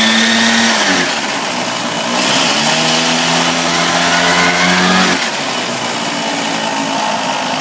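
Small midi-motorcycle engine being revved with its CVT exposed: a rev holds and drops back about a second in, then the engine is revved again for about three seconds before falling back to a lower, steady running speed.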